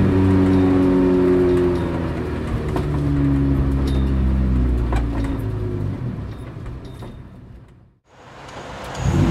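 Honda Civic EK9 Type R's B16B four-cylinder VTEC engine and exhaust running at low revs as the car rolls slowly, its pitch easing down, then fading out about eight seconds in. A new engine sound comes up just before the end.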